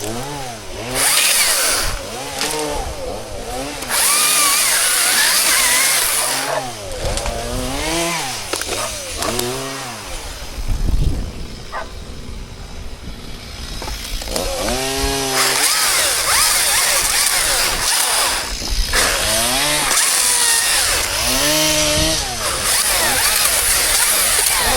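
Chainsaw revved up and down over and over, cutting into wood in several loud stretches. It drops back to a quieter idle about halfway through, then cuts steadily through most of the last part.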